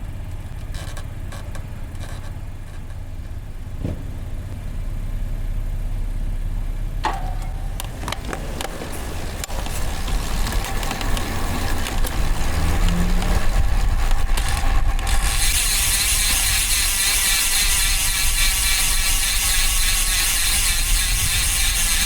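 Riding noise from a road bike's onboard mic: low wind and road rumble with a few clicks, growing louder, and a steady high hiss joining about fifteen seconds in.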